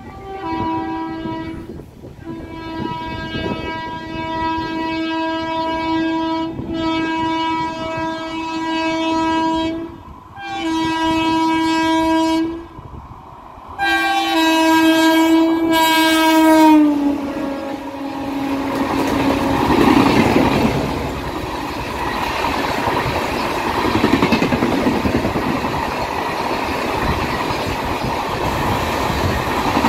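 A locomotive horn sounds a series of long blasts as an express train approaches at speed. Its pitch drops as the locomotive passes, about 17 seconds in. Then the rumble and clickety-clack of the passenger coaches running through at speed.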